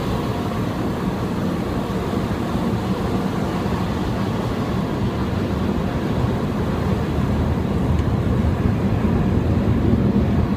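Automatic car wash machinery heard from inside the car: a steady noise that grows slightly louder towards the end.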